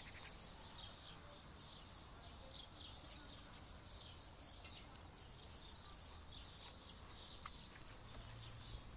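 Faint chirping of small birds repeating again and again over a low steady rumble.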